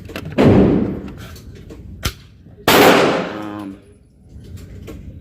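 Two gunshots about two seconds apart, each ringing on in the range's echo, with a sharp click between them.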